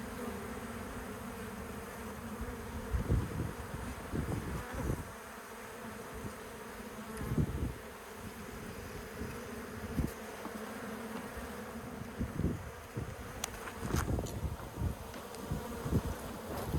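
A honeybee colony buzzing steadily at its birdhouse nest. A few brief low thumps come and go over the buzzing.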